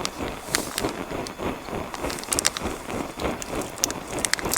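Small Goshawk twig-burning camp stove puffing away in a quick, rhythmic pulse while the wood fire burns hard, with sharp crackles from the burning twigs.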